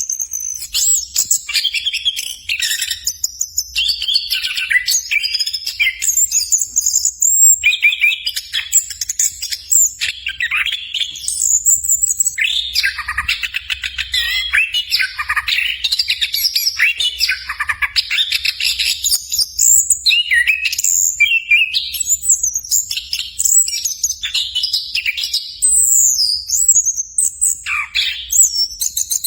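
Orange-headed thrush singing a long, varied song of quick trills and whistled phrases with only brief pauses.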